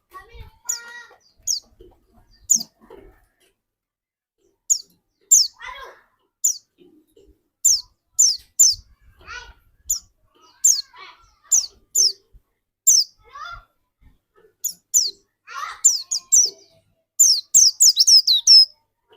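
Captive pleci dakun white-eye singing in full voice: a run of short, high, downward-sweeping chirps, each about half a second to a second apart, crowding into a quick burst near the end.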